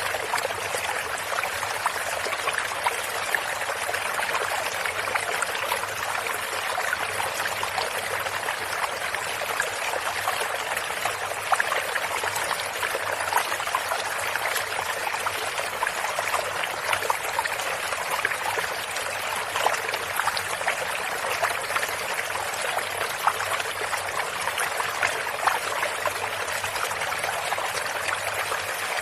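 Flowing stream water, a steady rush with a constant trickling, splashing texture.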